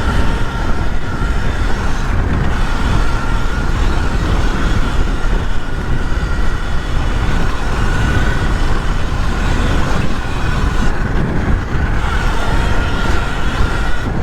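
Sur Ron electric dirt bike being ridden, its motor giving a steady whine that wavers slightly with speed, over loud wind buffeting on a helmet-mounted camera microphone.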